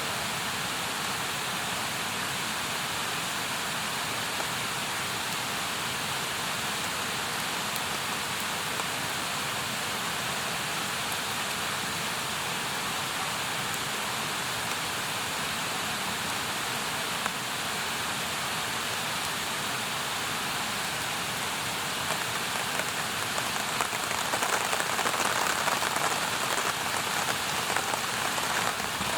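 Campfire burning with a steady hiss and fine crackling, growing somewhat louder near the end.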